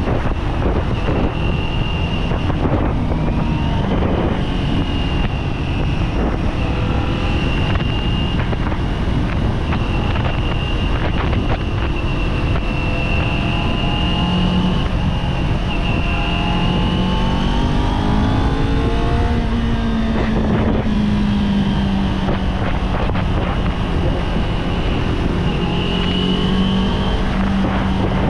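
Kawasaki Z400 parallel-twin engine pulling under way, its pitch climbing as it accelerates and dropping back around twenty seconds in, under heavy wind rush on the microphone. A steady high-pitched whine runs over it.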